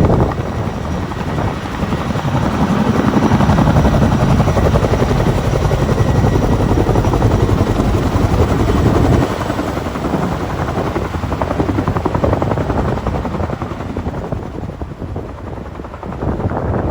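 Large firefighting helicopter's rotors and engines running loud and steady, easing off somewhat about nine seconds in and fading further near the end.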